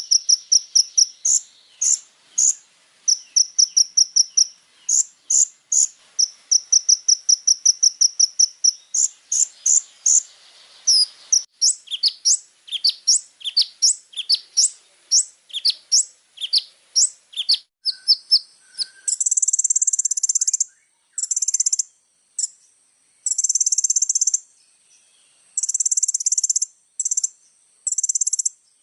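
Kolibri ninja (sunbird) song filled with imitations: fast runs of high, evenly repeated chirps, then a string of quick downward-slurred notes, and in the second half rapid buzzing, insect-like trill phrases in short bursts.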